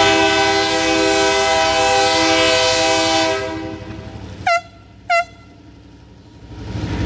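New Orleans Public Belt locomotive 2000's horn sounding one long, loud chord of several tones for about three and a half seconds, then fading out. Two short single-note horn toots follow about a second later, half a second apart.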